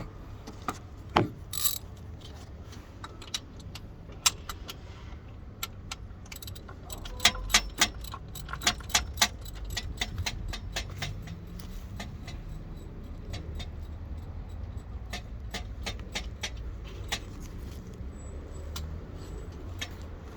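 Metal hand tools clinking and knocking on car engine parts during starter-motor work: scattered sharp clicks, with a quick run of them about seven to nine seconds in, over a low steady hum.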